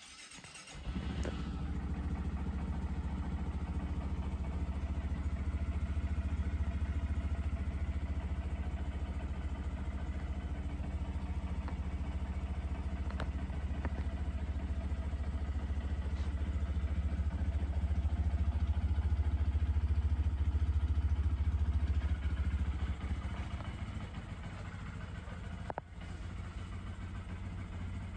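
Honda MSX125 motorcycle's single-cylinder 125cc four-stroke engine starting up about a second in, then running steadily at idle, a little quieter for the last few seconds.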